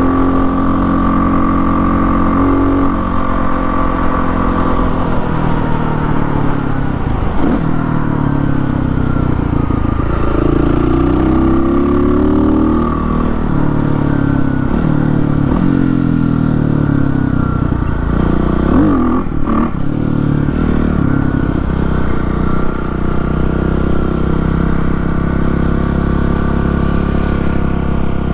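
Kawasaki KLX300R single-cylinder four-stroke dirt bike running through an FMF Powercore exhaust with a quiet insert and an open air box. Its engine pitch rises under acceleration and drops at each gear change, over and over, with a quick dip about two-thirds of the way in, then runs steadier near the end.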